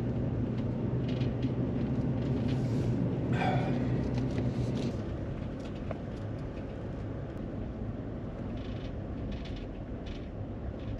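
Third-generation Toyota Tacoma pickup driving, a steady engine and road hum inside the cab that eases off about five seconds in. A brief higher sound cuts in about three and a half seconds in.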